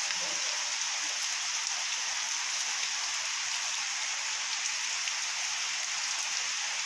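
Heavy rain pouring steadily, a dense even hiss of rain falling onto standing water and surfaces.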